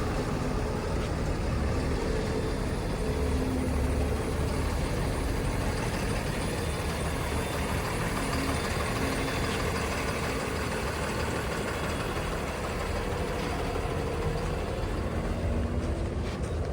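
Heavy diesel engine running steadily at a low, even speed, its pitch drifting slightly.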